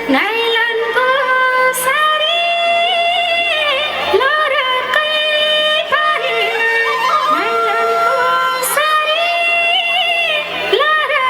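Teej dance song playing: a high voice sings a melody with long held notes, trills and slides, over musical accompaniment.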